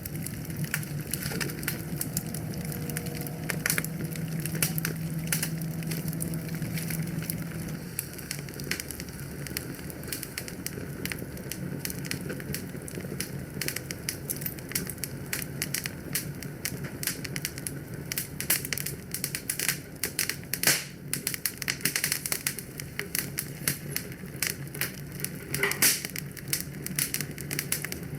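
Fireplace fire crackling, with frequent sharp pops and snaps over a low steady rumble of flames that eases about eight seconds in.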